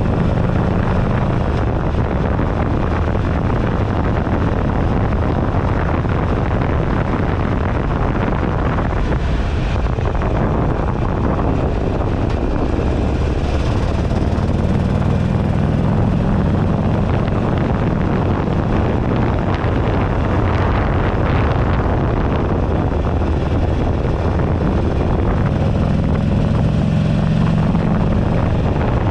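Heavy wind buffeting on a handlebar-mounted camera's microphone while riding, with the 2008 Buell Ulysses XB12XT's air-cooled V-twin running underneath. The engine's low note comes through more strongly at the start, around the middle and near the end.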